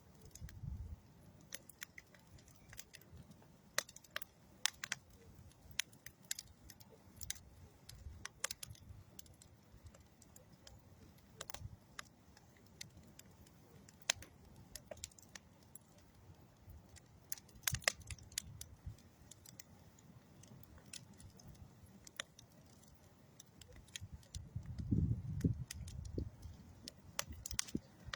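Wood fire of old railroad ties and dead tree wood crackling, with sharp pops at irregular intervals over a low rumble of burning. The rumble swells for a couple of seconds about 25 seconds in.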